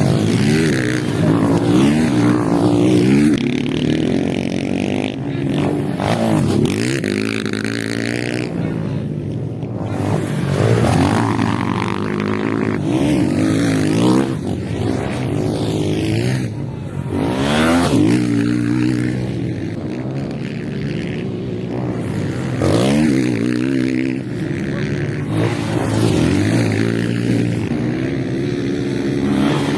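Several motocross motorcycles racing, their engines revving up and falling back over and over as the bikes accelerate, brake and pass.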